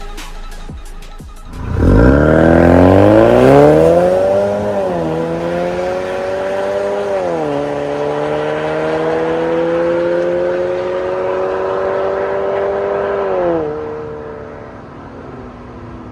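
The end of a music track gives way to a Ford Kuga ST-Line Mk3's turbocharged EcoBoost engine, heard through an MS-R valved catback exhaust, accelerating hard with its pitch climbing. The pitch falls at two gear shifts, then climbs slowly through a long pull. Near the end the driver lifts off, the pitch drops and the sound fades away.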